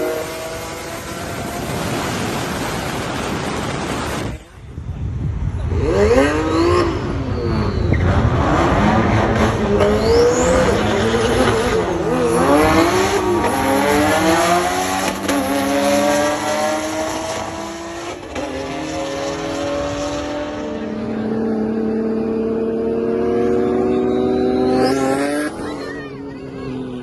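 Performance car engines revving hard, the pitch sweeping up and down again and again, with a sudden break about four seconds in. Near the end comes a long steady climb in pitch as a car pulls through a gear.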